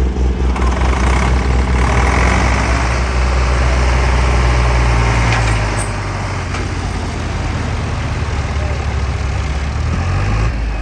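Tractor diesel engine running loud and steady under load while pulling a heavy trolley, easing down somewhat about six seconds in.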